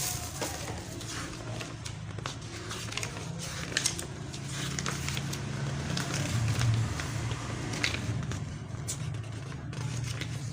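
Scattered light clicks and scrapes of small parts being handled, over a steady low background hum.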